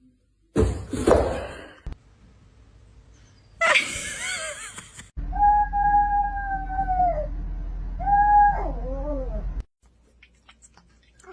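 A pet animal giving long, level, drawn-out cries: one held about two seconds that drops in pitch at its end, then a shorter one that breaks into falling calls. A short burst of noise comes before them.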